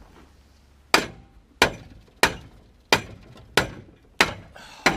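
Hammer blows on a rusted truck exhaust pipe being knocked loose: seven sharp strikes in a steady rhythm, about three every two seconds, beginning about a second in, each ringing briefly.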